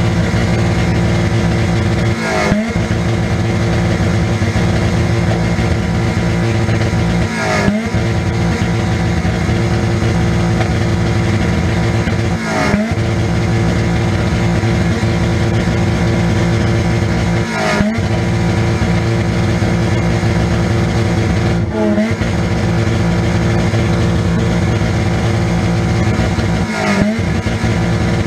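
1998 Nissan Pulsar's 1.8-litre four-cylinder engine running steadily, heard from inside the car. About every five seconds there is a brief break in the sound with a short rising note.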